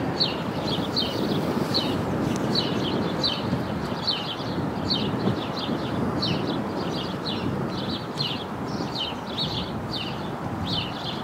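A small bird chirping over and over: short, high chirps, often in quick pairs, several a second, over a steady background rush.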